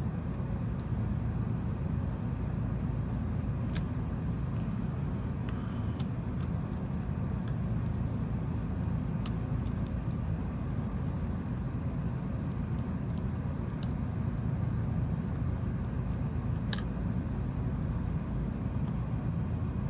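A steady low background rumble with a few faint, sharp clicks scattered through it: small tools and phone parts being handled during reassembly of a smartphone.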